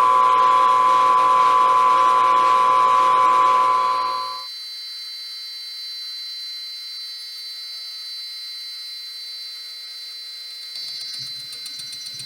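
Metal-turning lathe running with a facing cut on the flywheel rim, a steady machine whine. It is loud for about the first four seconds, then drops abruptly to a quieter, steady whine.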